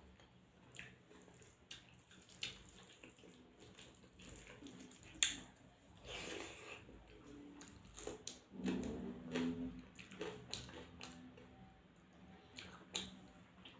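Close-miked wet eating sounds: rice and goat tripe curry chewed and lip-smacked, with scattered small squelching clicks and one sharper click about five seconds in.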